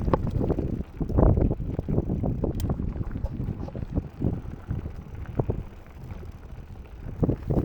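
Mountain bike clattering and rattling over a rough, rocky trail on a descent, with irregular knocks from the bike being jolted. Wind buffets the microphone throughout.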